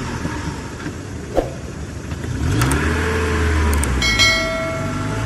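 Mitsubishi Mirage G4's engine running, revved up about two seconds in, held, then easing back down about a second and a half later. A brief ringing tone sounds as the revs drop.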